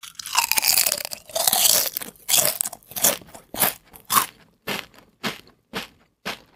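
Someone chewing crisp fried fish, with crunching that is loudest and densest at first, then settles into a steady rhythm of about two crunches a second.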